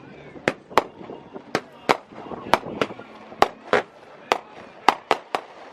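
About a dozen sharp cracks or pops at irregular intervals, some in quick pairs, over a low steady background.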